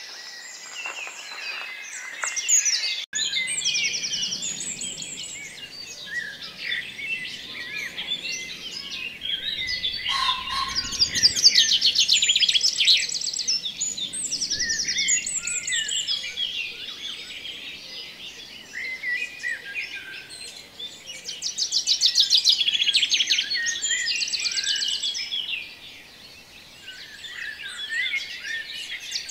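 Several small birds chirping and singing at once, with quick chirps and repeated fast trills, one burst around the middle and another near the end.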